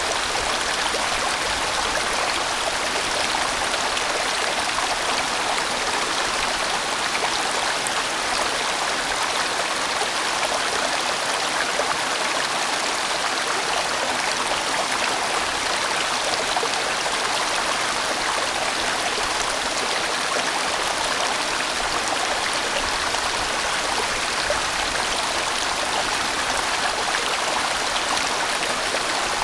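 A large valley stream flowing, a steady, unbroken rush of water.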